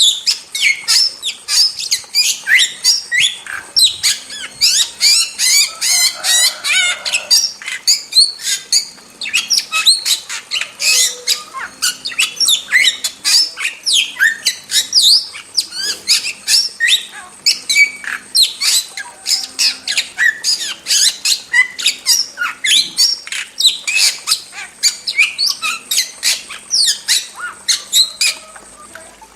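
Starling calling without pause: a dense run of short, sharp, high whistled and harsh notes, several a second.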